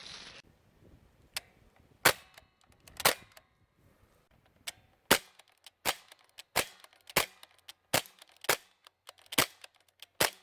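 UZI-style CO2 BB airgun fired semi-automatically without its silencer: about a dozen sharp single cracks, one every half second to a second, the pace quickening after the first few shots.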